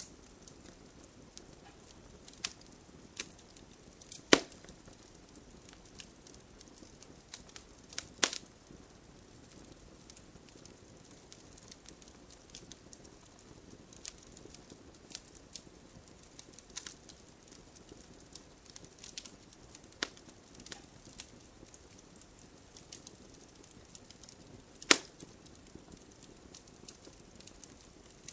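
Bonfire crackling, with scattered sharp pops of burning wood. Three loud cracks stand out, about four seconds in, about eight seconds in and near the end. Underneath is a steady hiss of gentle rain.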